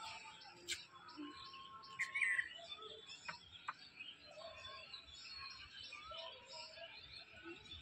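Birds chirping and calling, with short high notes and a warbling call about two seconds in, and a few sharp clicks.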